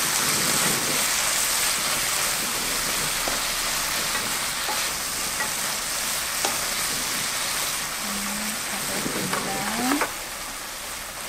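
Sweet potato stems sizzling in oil in a frying pan while being stirred and tossed with two wooden spoons, with a steady frying hiss and faint ticks from the spoons.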